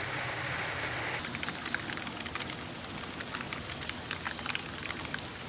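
Steady rain falling, many separate drops ticking within a continuous hiss. The hiss gets brighter about a second in.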